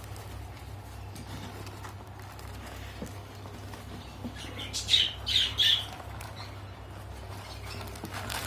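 Hagoromo frill canary giving three short, harsh calls in quick succession about five seconds in, over a steady low hum.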